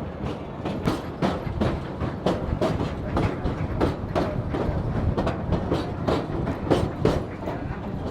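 Narrow-gauge railroad car wheels clicking over rail joints, about two sharp clacks a second, over the steady rumble of the moving train.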